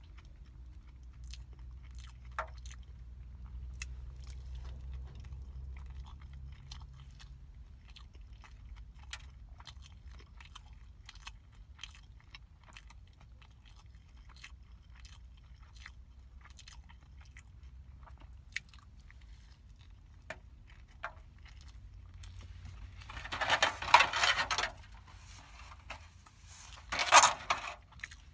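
Close-up chewing of a hamburger: soft wet mouth clicks and smacks, with two louder crunching spells near the end.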